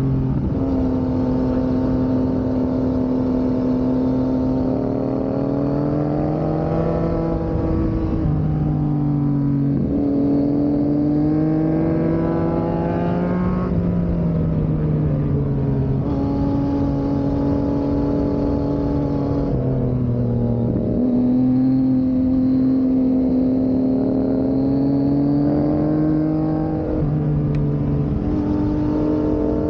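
Yamaha MT-09 three-cylinder and MT-07 parallel-twin motorcycle engines under way uphill. The engine note holds steady for stretches, then rises and drops sharply several times as the revs climb and fall through gear changes.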